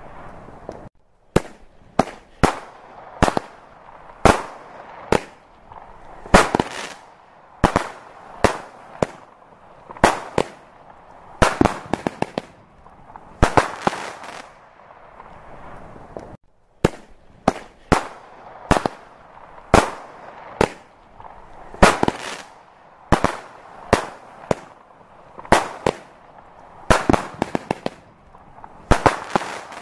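A large fireworks display: aerial shells bursting in an irregular run of loud, sharp bangs, about one or two a second, some coming in quick clusters of two or three.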